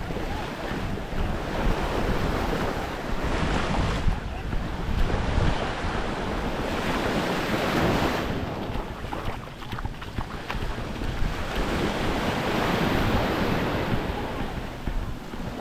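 Waves washing onto the beach, swelling and easing every few seconds, with wind buffeting the microphone in a low rumble.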